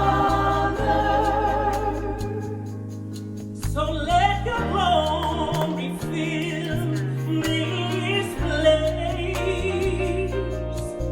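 Live gospel worship music: women's voices singing over sustained chords and a bass guitar. The music softens briefly, then the voices come back in with wavering, gliding vocal runs about four seconds in.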